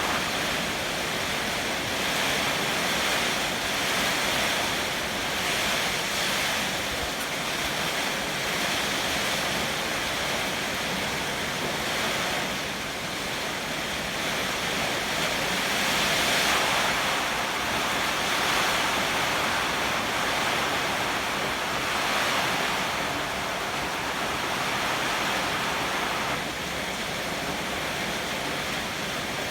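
Heavy typhoon rain pouring steadily with strong wind, the rush swelling and easing every few seconds.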